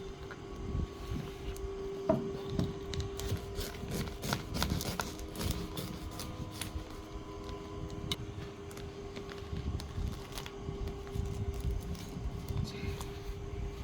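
Knife cutting and prying at a durian's spiky husk: irregular clicks and cracks, with a sharper knock about two seconds in, over a steady hum.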